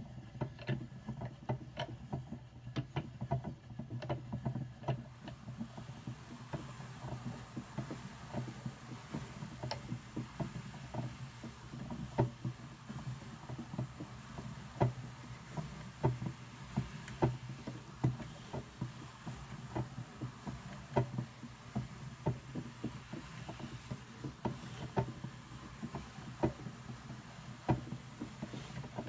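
Hand-cranked Brother drum carder turning, its fine carding cloth drawing Targhee wool through with a dense run of clicks and ticks, several a second, over a low steady drone.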